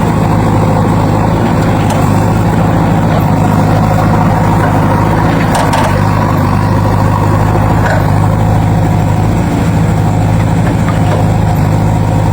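Heavy vehicle engine idling steadily, a deep even hum with no revving.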